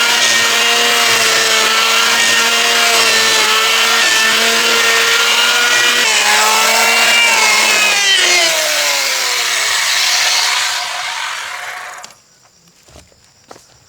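A woodworking power tool runs with a steady high whine, then is switched off about eight seconds in and winds down with a falling whine until it stops, followed by a few faint knocks.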